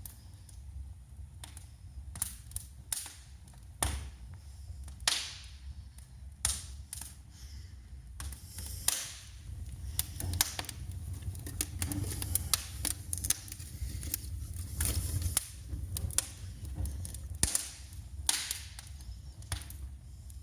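Small wood fire crackling in a fireplace, with irregular sharp pops over a low steady rumble; the pops come more often from about eight seconds in.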